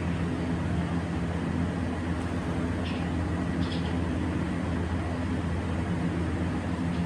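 Steady low machine hum with a constant drone, and two short high chirps about three seconds in and half a second apart.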